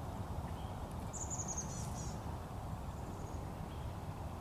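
A small songbird giving a short, high-pitched call about a second in, over a steady low rumble.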